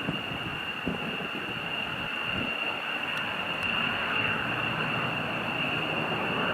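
Military jet engine running at a distance: a steady high whine over a wash of engine noise that grows a little louder midway, with wind rumbling on the microphone.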